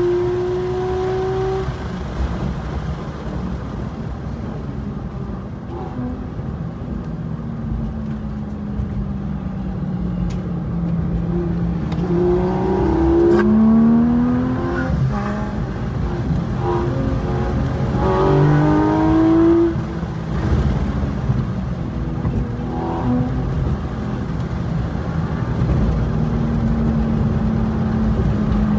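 Porsche 911 GT3 RS's naturally aspirated flat-six engine at speed on a race track, heard from inside the car. Its note falls slowly as the car slows, then rises sharply twice, about halfway through and again around two-thirds of the way, as it pulls out of corners in third gear.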